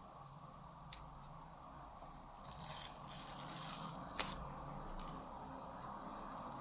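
Paper and cardboard phone packaging being handled and torn open: a faint rustling tear about two and a half seconds in, with a couple of sharp clicks, one near the start and one around the four-second mark.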